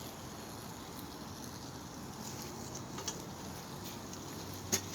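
Faint steady outdoor hiss with a few light rustles and clicks, the sharpest near the end, as a person moves among garden plants.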